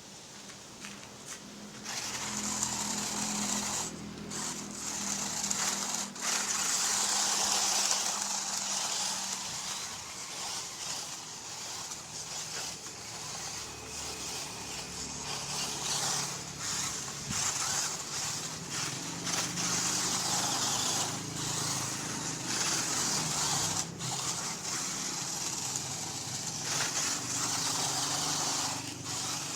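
RC rock crawler's stock brushed electric motor and gear drivetrain running, a high whine with gear noise whose pitch shifts with the throttle. It starts about two seconds in and briefly drops out a few times.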